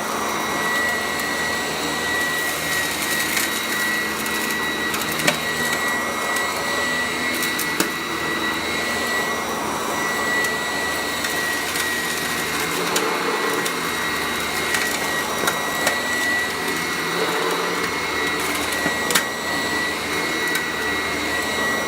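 Vacuum cleaner running steadily with a high-pitched motor whine as it picks up test dirt, with scattered clicks and rattles of little twigs being sucked up through it.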